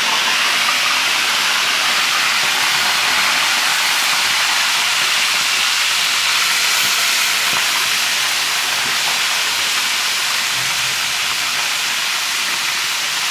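Pieces of spiced buttonquail meat frying in hot oil, a loud, steady sizzle.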